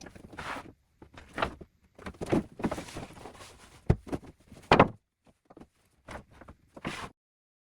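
A series of irregular knocks and thumps with scraping noises between them, cutting off suddenly about seven seconds in.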